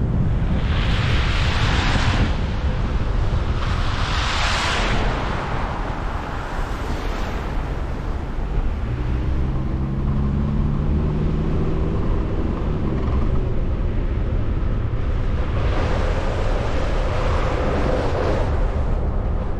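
Road and wind noise from a vehicle driving, a steady low rumble throughout. Three louder hissing swells rise and fall about one second, four seconds and sixteen seconds in, and a steady low hum sits under the noise from about nine to thirteen seconds in.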